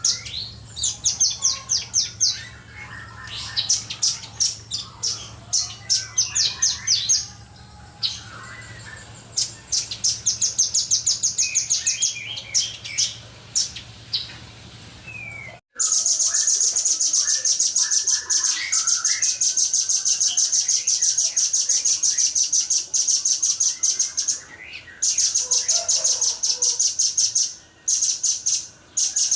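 Velvet-fronted nuthatch singing high, rapid chirping trills in long fast runs. The song breaks off sharply about halfway through, then resumes as a near-unbroken rapid trill.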